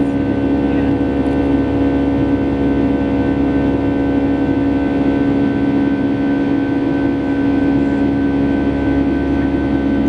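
Steady jet engine drone of a Boeing 757-300 heard from inside the cabin: a constant low rumble with a strong, even hum and fainter higher tones, unchanging throughout.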